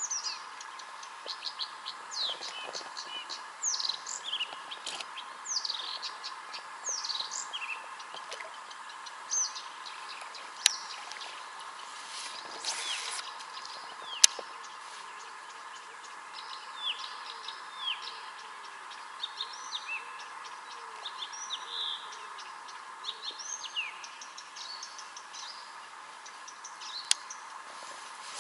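Songbirds singing, a steady run of short, quick chirps and descending whistles, with a few sharp clicks in the middle.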